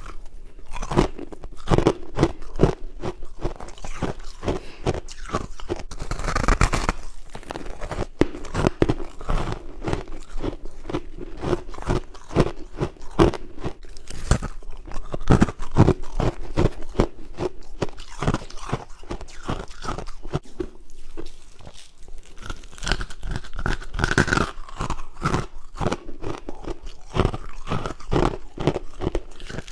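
Someone biting and chewing soft, powdery white humidifier frost close to the microphone: a steady run of rapid, crisp crunches with no pauses.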